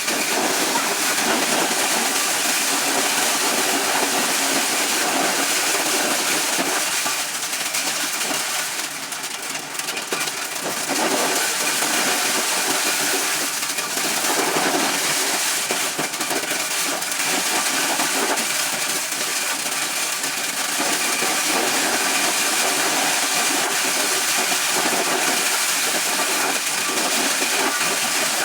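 A corn-shelling machine running steadily, with a continuous hiss.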